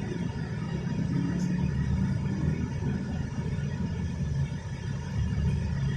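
Heavy tropical downpour: a steady low roar of rain that swells and eases slightly.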